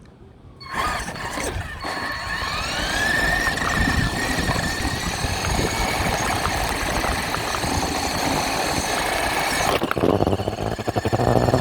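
RC truck's motor and drivetrain whining as it drives off, the whine rising in pitch about two seconds in and then holding steady. Near the end the sound turns rougher and pulsing.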